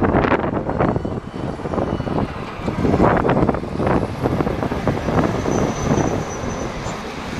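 Trucks driving past, with wind buffeting the microphone in uneven gusts.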